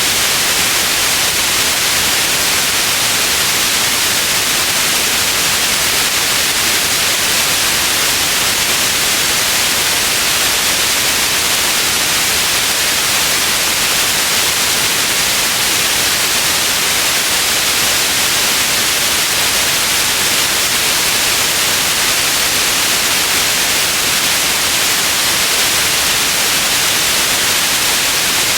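Steady white noise: an even, unchanging hiss, brightest in the high end, with no events or changes.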